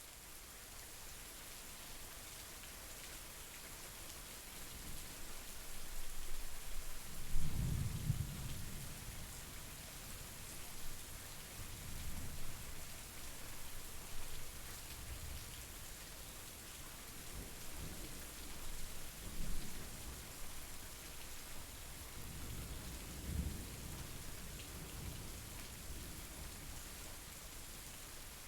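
Steady rain falling, with low rolling thunder several times; the loudest roll comes about seven seconds in, the later ones weaker.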